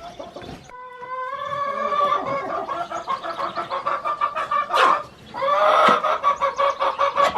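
A hen calling loudly, two long drawn-out calls of rapid pulses at a steady pitch, the second starting about halfway through.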